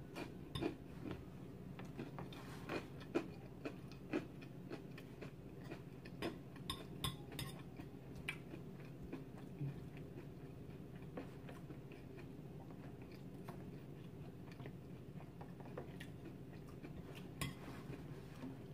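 Faint chewing of salad, with scattered light clicks of a fork against the plate, busiest in the first half.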